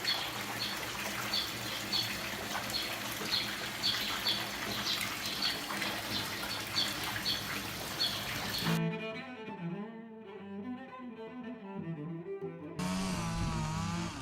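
Steady rushing water with a bird chirping over and over, about twice a second. About nine seconds in this gives way to music with low, bowed-string-like notes.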